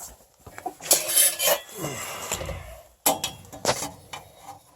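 Metal clinks, clanks and scraping as sheet-metal parts and tools are handled at a furnace, with a few sharp knocks in two clusters.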